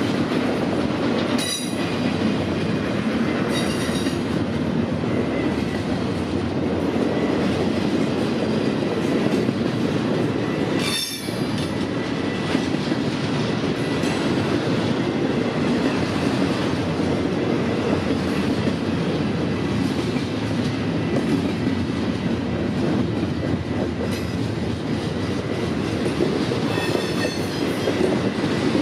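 Freight train cars rolling past with a steady rumble of wheels on rail. Brief high-pitched wheel squeals come a few times.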